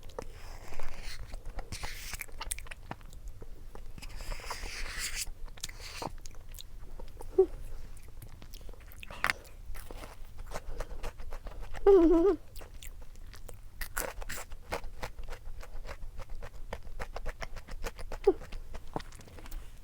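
A person chewing and biting food close to the microphone, with many small crunches and mouth clicks and a short hum about twelve seconds in.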